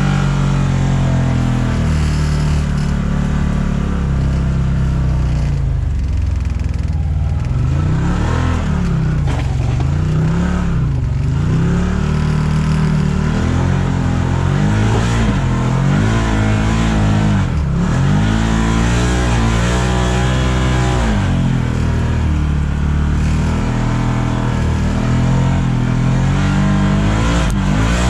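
A motor vehicle's engine running and revving, its pitch repeatedly rising and falling.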